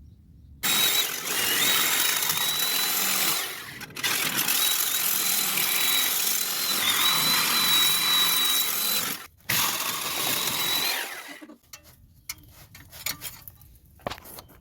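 A power tool cutting through a steel exhaust pipe, running with a steady high whine in three stretches: about three seconds, a short pause, five seconds, a brief stop, then two more. It stops near the end, followed by a few light clicks and knocks.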